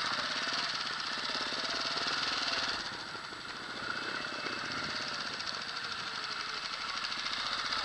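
Trials motorcycle engine running at low revs while the bike is ridden slowly, a rapid, steady putter of firing strokes. It eases off about three seconds in, then picks up again.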